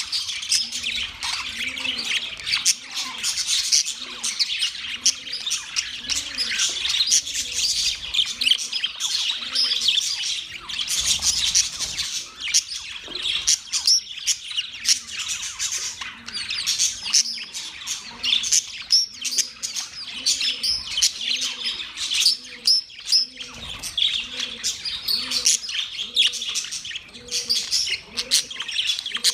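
A flock of budgerigars chattering and chirping without a break, many overlapping quick chirps and squawks. A fainter low call repeats about once a second underneath.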